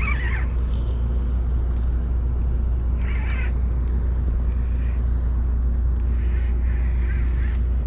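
A large engine running steadily, giving an unbroken low drone made of several even hum tones, with a couple of faint brief higher sounds near the start and about three seconds in.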